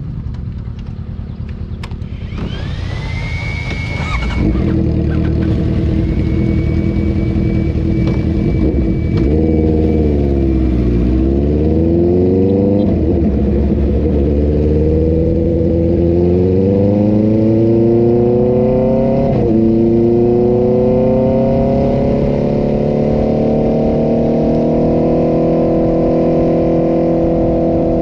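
Inline-four sport motorcycle engine and exhaust on the road. It drops in pitch about ten seconds in, then pulls with rising pitch, breaking at two upshifts, and climbs slowly and steadily to a high note near the end.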